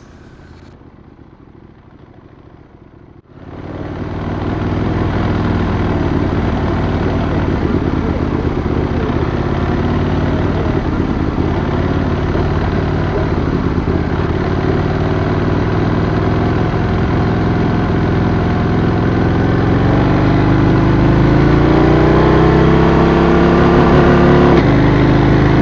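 Adventure motorcycle engine running under way, starting abruptly about three seconds in after a quieter stretch. Its pitch climbs steadily over the last few seconds as it accelerates.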